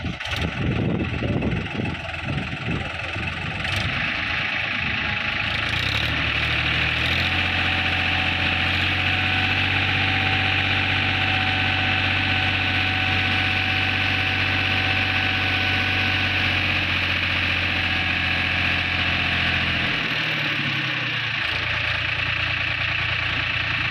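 Powertrac Euro tractor's diesel engine idling with a rough knock, then raised to a steady higher speed with a faint whine, held for about fifteen seconds and dropping back to idle near the end: revs raised to drive the hydraulics that tip the sand load.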